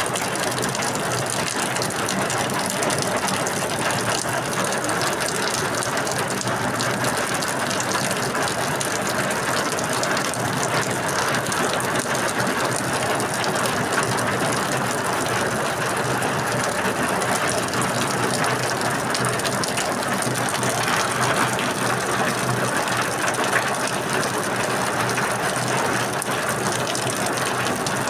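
Steady rain falling, a dense, even pattering of drops.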